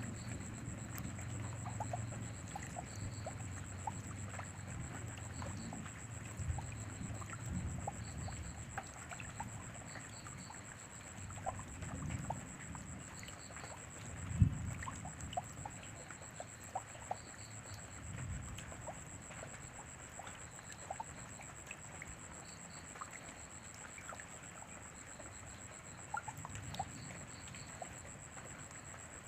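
Steady rain with scattered drops ticking and water trickling, a low rumble coming and going, and one dull thump about halfway through. A thin steady high whine sits over it throughout.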